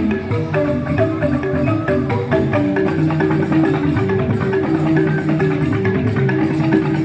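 Balinese joged bumbung gamelan playing: bamboo xylophones struck with mallets in fast, dense interlocking note patterns, with drum and percussion underneath.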